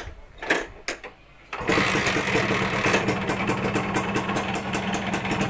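Suzuki Satria single-cylinder two-stroke motorcycle engine, breathing through a hollowed-out stock exhaust, catching after a couple of clicks about one and a half seconds in and settling into a steady, rapid-pulsing idle.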